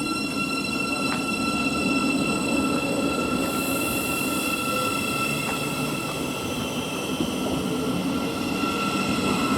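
Thameslink Class 700 electric multiple unit pulling out of the platform: a steady rumble of the train with several steady high-pitched whining tones over it. A short high hiss comes about four seconds in.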